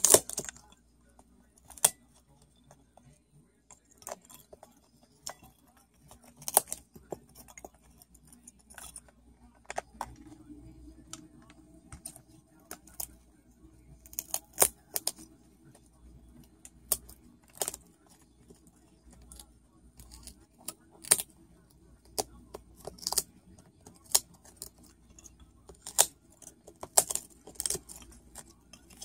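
Cockatoo busy with its beak on a hard object: irregular sharp clicks, taps and clinks, scattered and uneven, some much louder than others.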